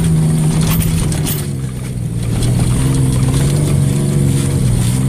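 Ford F-150 pickup engine running under throttle while the truck ploughs through snow; its pitch steps down about a second and a half in, holds steady, then drops again at the end.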